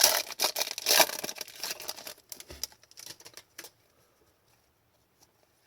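Hockey trading cards being handled and flipped through by hand: a quick run of small clicks and slaps of card stock for about three and a half seconds, then near silence.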